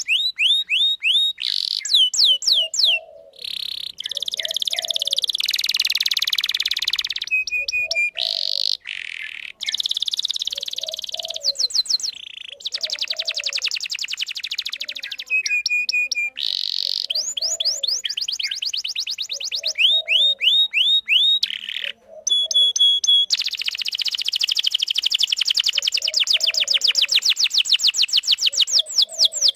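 Domestic canary singing a long, nearly unbroken song. Fast trills and rattling rolls alternate with runs of repeated downward-sliding whistles, with only brief pauses between phrases. A faint low call repeats underneath about every second and a half.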